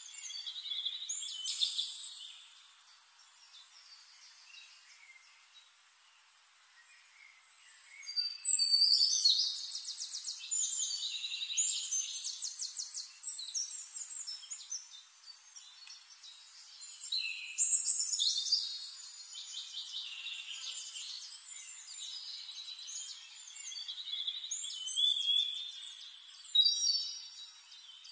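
Songbirds singing: bouts of high chirps and rapid trills, with a quieter stretch from about two to eight seconds in.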